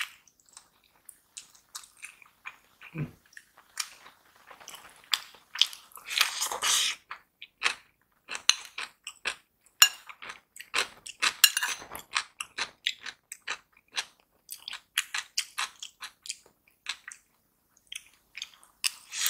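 Close-miked chewing of a mouthful of rice and stir-fried vegetables: a dense run of short wet clicks and smacks from the mouth, with some crunching.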